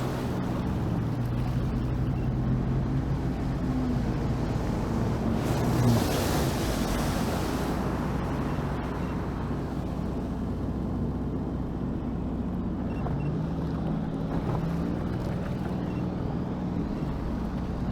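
Sea-Doo Fish Pro jet ski running on the water, its engine note dropping about six seconds in and climbing again later, with water and wind noise throughout. There is a brief hissing rush about six seconds in.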